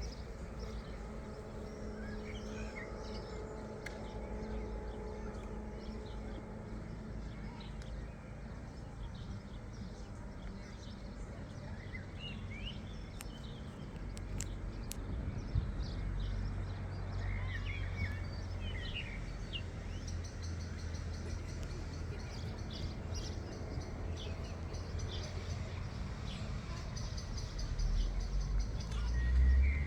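Outdoor ambience: scattered bird chirps over a steady low rumble, which grows louder about halfway through.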